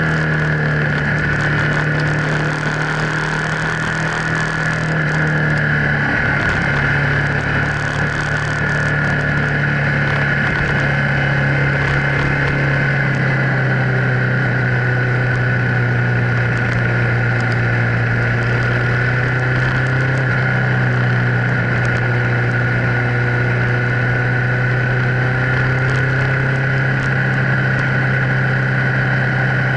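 Car engine droning steadily while cruising, over wind and tyre noise; its pitch drops a little about twelve seconds in.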